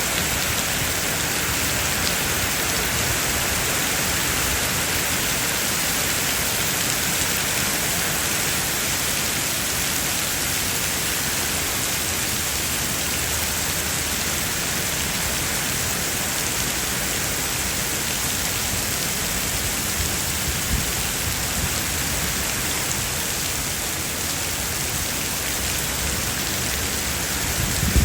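Heavy rain falling steadily, a dense, even hiss of rain on the ground and surrounding surfaces.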